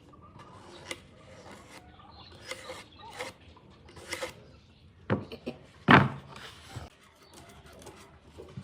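Scattered knocks and scrapes of wood being handled, with two louder knocks about five and six seconds in.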